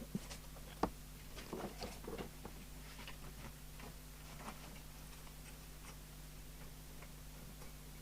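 Faint clicks and taps of test equipment being handled and switched on a workbench, with a sharp click about a second in, over a steady low mains hum.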